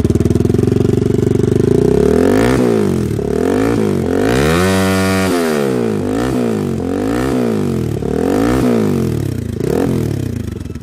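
TVS Apache RTR 200 4V's single-cylinder engine running through an aftermarket carbon-fibre exhaust with its dB killer still fitted. It idles at first, then is revved in a string of quick throttle blips, one held higher for about a second near the middle.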